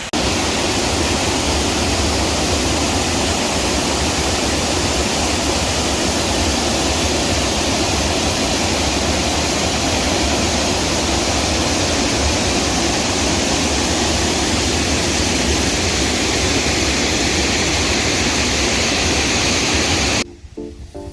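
Scaleber Force, a 40 ft waterfall over limestone into a deep pool: a loud, steady rush of falling water with a deep rumble beneath it. It cuts off abruptly about a second before the end.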